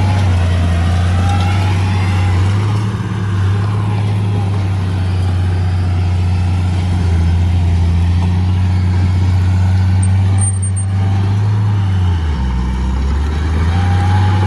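Heavy diesel engine of construction machinery running steadily close by; its revs drop briefly about twelve seconds in, then come back up.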